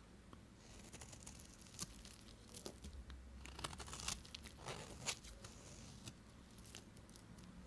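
Knife cutting into bars of soap: a run of crisp scraping crackles and small crunches, busiest in the middle few seconds, then a few scattered ticks.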